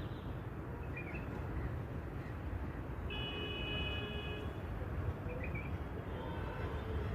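Steady low outdoor rumble, like wind on the microphone or distant traffic, with two short bird chirps, about a second in and again about five seconds in. Between them a steady high whistling tone of several pitches holds for about a second and a half.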